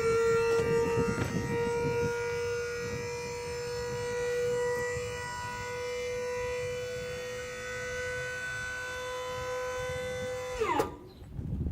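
12-volt electric hydraulic pump whining steadily as it raises a 3-ton scissor-hoist dump bed. The motor's whine holds one pitch, then drops and cuts off near the end as the pump stops with the bed raised.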